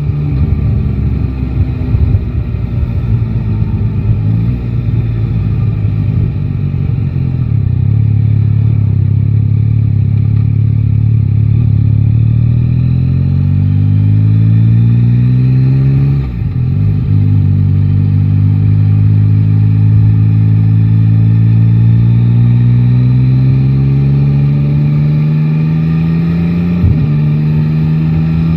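Yamaha Tracer 9 GT's 890 cc inline-three engine, heard from the rider's seat, pulling through the gears. Its pitch climbs slowly, drops sharply at an upshift about sixteen seconds in, climbs again and drops at another shift near the end.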